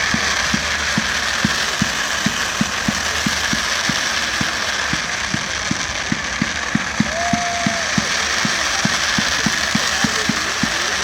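Steady mechanical rhythm of low thuds, about four a second, over a constant hiss, with a short whistle-like tone about seven seconds in.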